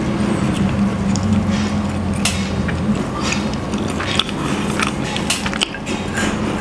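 Close-miked chewing of a soft cheese-filled bread roll (pandesal), with short wet mouth clicks and smacks coming thicker toward the end, over a low steady hum.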